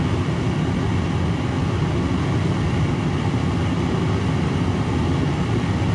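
Homemade black-iron-pipe propane forge burner running lit, a steady rushing noise that holds even throughout.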